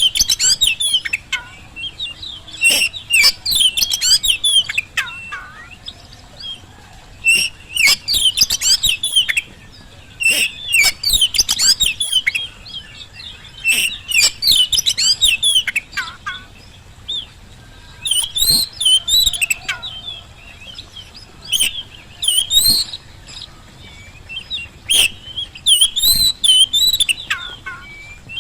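Oriental magpie-robin in full song, loud, quick whistled phrases with sharp clicking notes, delivered in bursts of one to two seconds separated by short pauses.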